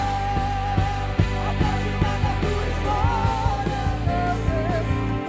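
Live church worship music: a band playing with steady drums and bass under a sung melody.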